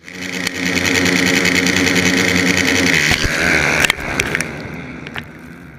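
Dirt bike engine running hard at steady high revs, then the revs waver and drop off about three seconds in and the sound fades away, with a few sharp knocks.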